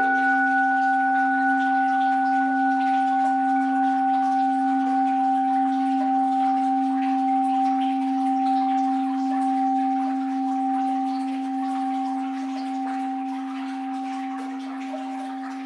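An orin, the Japanese Buddhist bowl bell, ringing out after a single strike: a low hum and a clear higher tone held on and slowly fading.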